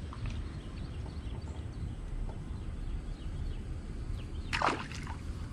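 A fish thrown back into the river lands with one brief splash about four and a half seconds in, over a steady low rumble of wind and water.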